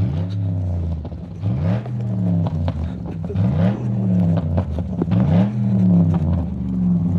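Cadillac DTS Northstar V8 revving up and dropping back four times, about every two seconds.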